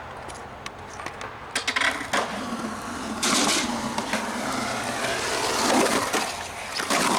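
Skateboard in use: a few light clicks, then wheels rolling with sharp board clacks and impacts from about a second and a half in, getting louder, with a hard hit near the end.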